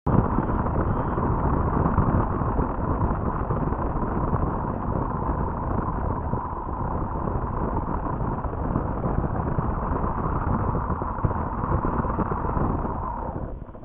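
Wind buffeting a nest webcam's microphone: a steady, rough rumbling noise that eases off near the end.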